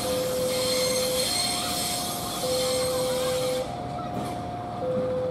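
Diesel locomotive's wheels squealing and hissing on the rails as it rolls through a curve, until the squeal stops about three and a half seconds in. Throughout, an electronic level-crossing alarm sounds two alternating tones, one low and one high, each held for just over a second.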